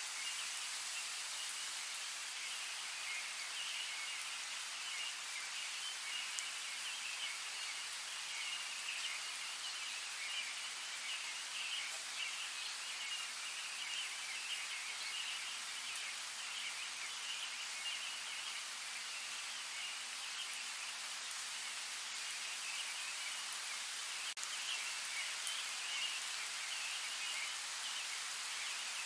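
Steady rain falling in a forest: an even, high-pitched hiss of dense patter with almost no low rumble.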